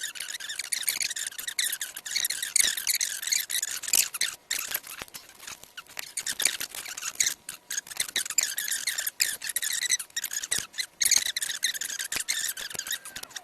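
Fast-forwarded unboxing audio: a dense run of high-pitched, wavering squeaks and rapid clicks from sped-up handling of the packaging and the knife.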